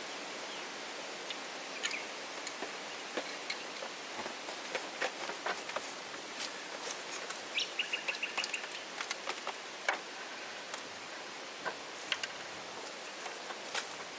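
Birds calling over a steady outdoor hiss: scattered short chirps and clicks, and a brief rapid trill of repeated high notes about eight seconds in.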